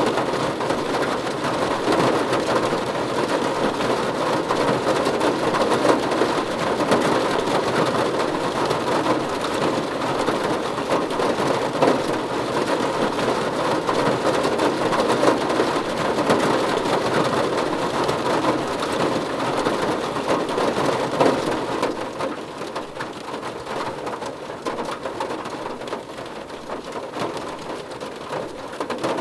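Heavy rain falling steadily, a dense even patter that becomes noticeably quieter about three-quarters of the way through.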